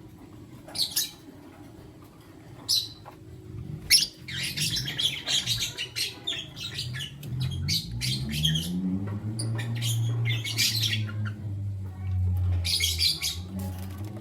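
Pair of lovebirds, one a lutino, chirping: a few sharp single high chirps in the first three seconds, then rapid, dense chirping from about four seconds in, with a short lull just before the end. A low hum sits underneath, rising in pitch and then holding steady in the second half.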